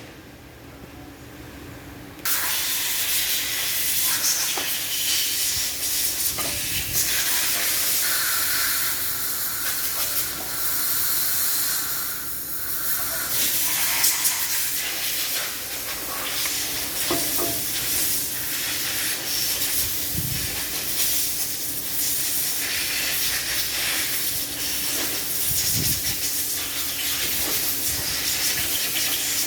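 A loud, steady hiss of a pressurised jet starts suddenly about two seconds in and carries on, swelling and easing slightly, over a faint steady hum.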